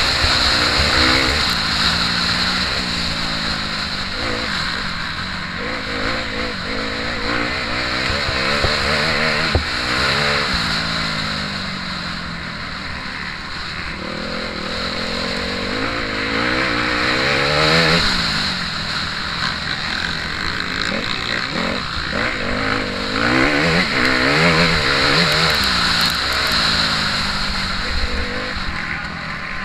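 Motocross bike engine heard close up from onboard, revving up and dropping back again and again as the rider accelerates, shifts and shuts off for corners.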